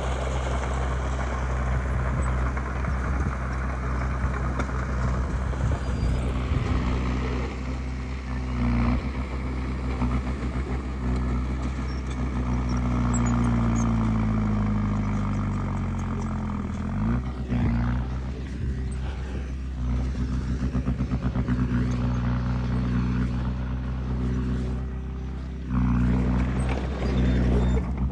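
Diesel engine of heavy earthmoving machinery running steadily. About halfway through, its pitch sinks slowly for several seconds as the revs fall, then quickly climbs back. Near the end it goes briefly quieter, then comes back up sharply.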